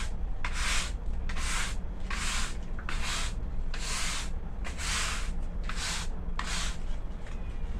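A series of scratchy rubbing or brushing strokes, about one a second, over a steady low hum.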